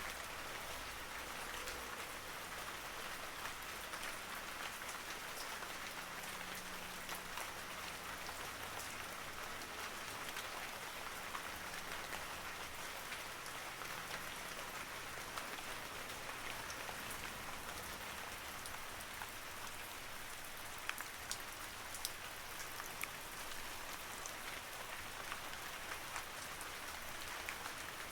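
Steady rain falling, an even hiss with many separate drop ticks scattered through it, a few louder taps about three quarters of the way in.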